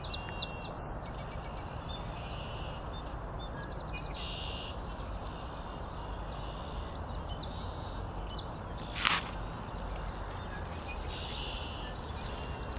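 Several wild birds chirping and singing in short repeated trills over a steady low background rumble, with one brief louder sound about nine seconds in.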